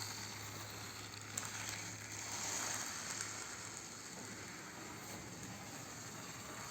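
BRC WAG1 HO scale model locomotive running along the track: a faint, steady whir and hiss from its small motor and wheels on the rails, a little louder about two and a half seconds in.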